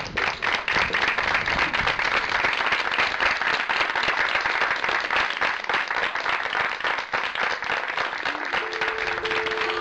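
Audience applauding with dense, sustained clapping at the end of a performance. Near the end a steady two-note tone comes in under the clapping.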